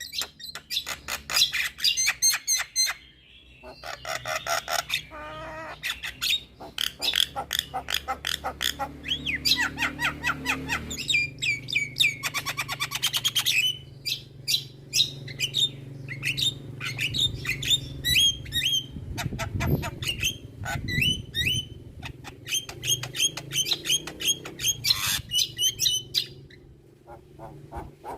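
Javan myna (jalak kebo) singing a long, varied song of rapid clicking rattles, sharp whistles and chattering notes, full of mimicked calls of other birds, with a couple of short pauses.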